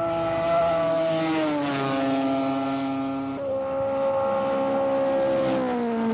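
Racing motorcycle engines at high revs passing by, one after another. Each engine note drops in pitch as the bike goes past: once about one and a half seconds in, and again near the end.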